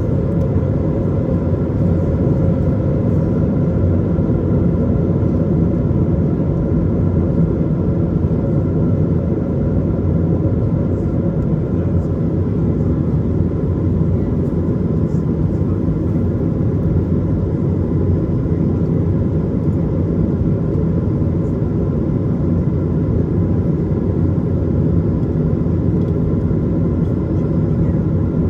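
Steady in-flight noise of an Airbus A220: a deep, even rush of airflow and its Pratt & Whitney PW1500G geared turbofans running, with a few faint steady tones above it.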